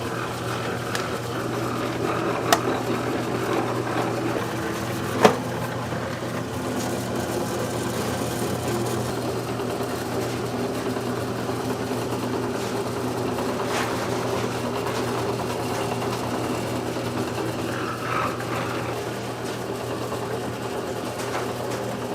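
Steady mechanical hum of commercial kitchen equipment, with two sharp clinks about two and a half and five seconds in.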